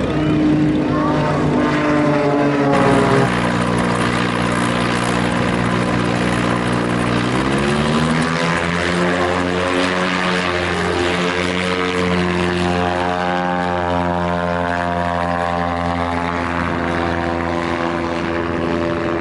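An autogiro's piston engine and propeller running loud and steady. The engine note drops about three seconds in, rises as the engine revs up around seven to eight seconds in, then holds at the higher speed.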